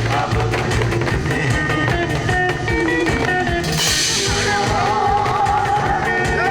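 Live band music with drum kit and a melody line, a cymbal crash about four seconds in, and a voice singing with vibrato after it.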